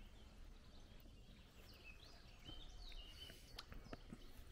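Near silence with faint birdsong: a few short, high chirps around the middle, and a few soft clicks near the end.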